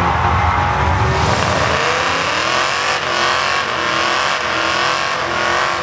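Holden HQ ute's engine revving hard through a burnout at a drag-strip start line, its rear tyres spinning. The engine note climbs about a second in and stays high.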